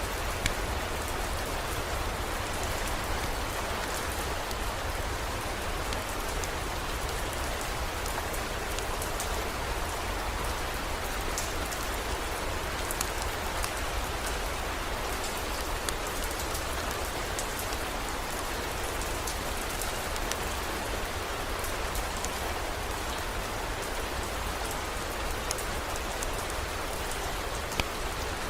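Steady heavy rain falling, with scattered sharp ticks of drops through it and a constant low rumble underneath.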